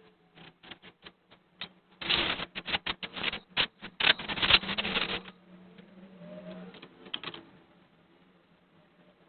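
Rapid, irregular clicking and rattling of small hard parts being handled, densest and loudest from about two to five seconds in, then a few scattered clicks.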